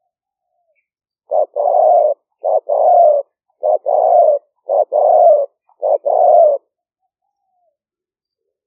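Spotted dove cooing in the run-on 'lio fueang' style valued for decoy calling. It gives five coos about a second apart, each a short note followed by a longer, slightly falling one.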